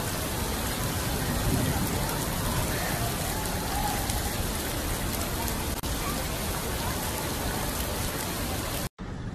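Heavy rain pouring onto wet paving, a dense steady hiss. It breaks off abruptly with a short gap near the end.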